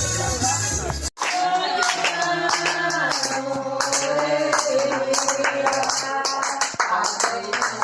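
Dance music with a heavy bass beat cuts off about a second in, followed by singing in long held notes with handclapping.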